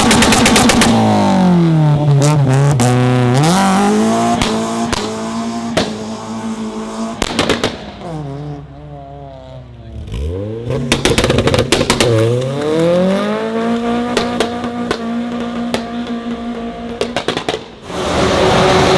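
Honda Civic hatchbacks' four-cylinder engines revving hard and pulling away, one after another. The pitch climbs and falls repeatedly as the throttle is worked and gears change, with scattered sharp exhaust pops and a long steady high rev in the second half.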